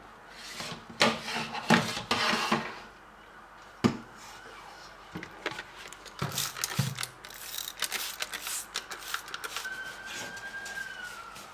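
Handling noises from a fridge's tempered-glass shelf and its plastic trim being worked on: scattered knocks, clicks and rubbing, with a short, slightly falling squeak near the end.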